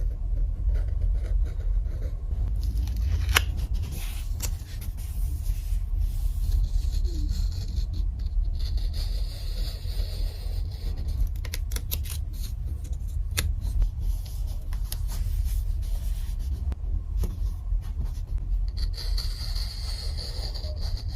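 Paper and stationery being handled for journaling: scratchy scraping and rustling with scattered sharp clicks, over a steady low handling rumble.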